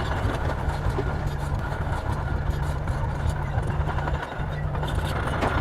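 Heavy diesel engine of earthmoving machinery running steadily, with a brief dip about four seconds in.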